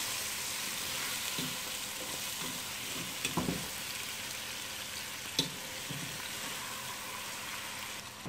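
Chicken pieces with chopped tomatoes and spices sizzling steadily in a non-stick pot while a spatula stirs them. A few short knocks of the spatula against the pot come a little over a third of the way in, and one more just past halfway.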